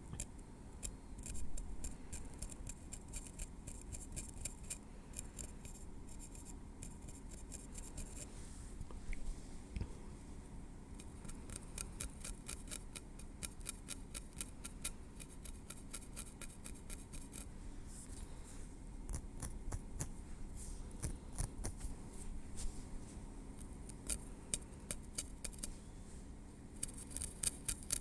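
Metal tweezers working through hair at the scalp: quick runs of fine, crisp clicks, several a second, broken by short pauses.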